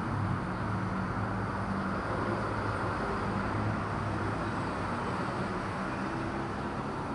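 Steady background noise with a low hum, with no distinct events.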